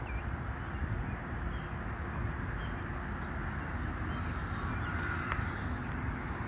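Steady outdoor background: a low rumble of distant traffic, with a few faint bird chirps and a single click about five seconds in.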